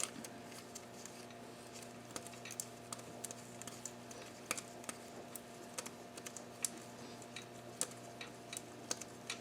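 Irregular light clicks and small metallic taps, one to a few a second, of hand tools and fasteners being handled during engine work, over a faint steady hum.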